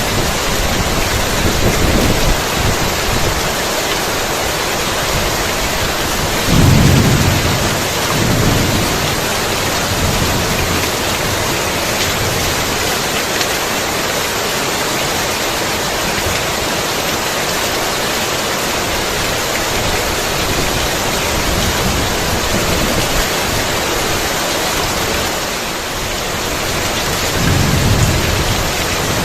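Heavy rain falling steadily, with low rolls of thunder, the strongest about seven seconds in and another near the end.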